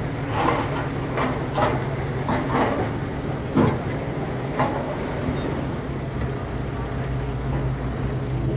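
Bulldozer's diesel engine running steadily under load, with irregular metallic clanks and squeals from its steel tracks, about seven over the first five seconds.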